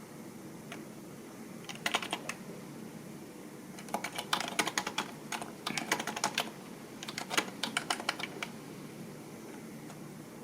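Typing on a computer keyboard: three short runs of quick key clicks, with pauses between them.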